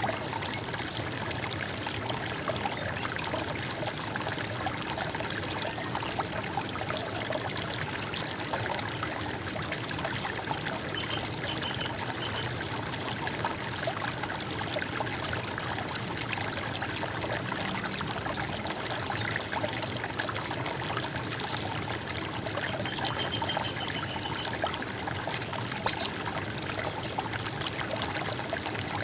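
Running water gurgling steadily, as from a small stream or cascade. A couple of faint, short high bird calls come through the water about a third and three quarters of the way in.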